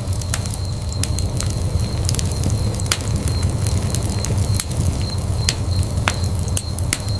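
Wood fire burning in a fireplace, a steady low rumble of flames under irregular sharp crackles and pops from the burning logs.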